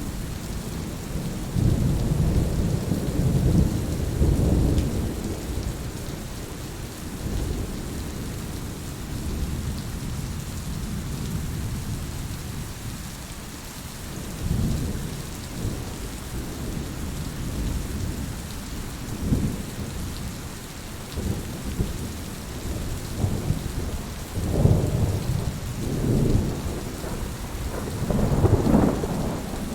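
Heavy rain falling steadily, with low rolls of thunder rumbling in several swells, the strongest early on and near the end.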